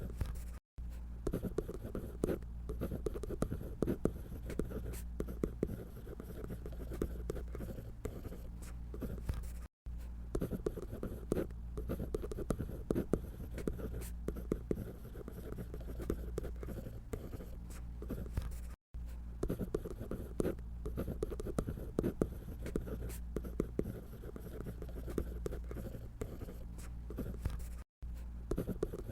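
Drawing strokes on paper: a continuous run of quick, irregular scratching as lines are sketched, over a faint steady low hum. The sound cuts out for a moment about every nine seconds.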